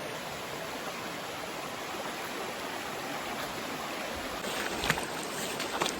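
River water running over rocks, a steady rush. Near the end a few sharp, close knocks cut in over it.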